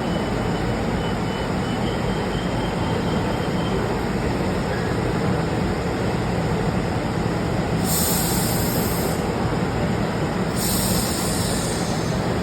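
Metro train with a steady low rumble, and two loud hisses of air near the end, one about eight seconds in and one about eleven seconds in, each lasting a second or so, from its pneumatic brakes or door gear.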